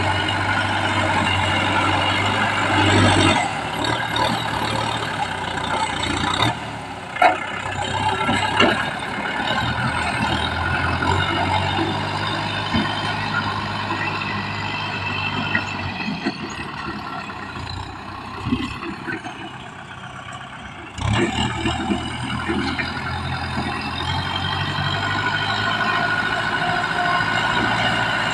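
Kubota M6040 SU tractor's diesel engine running under work, its note shifting as the load changes, with a few sharp knocks about a quarter of the way in. The engine eases off for several seconds past the middle, then picks up again suddenly.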